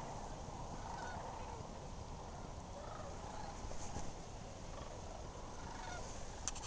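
Chorus of a large distant flock of birds, many calling over one another, over a low steady rumble.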